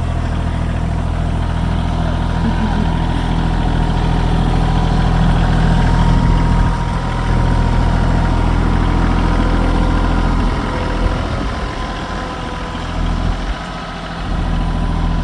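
Tractor engine running steadily, its low drone weakening about eleven seconds in.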